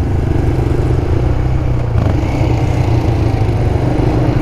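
1990 Honda NX250's single-cylinder four-stroke engine running steadily under way at cruising speed.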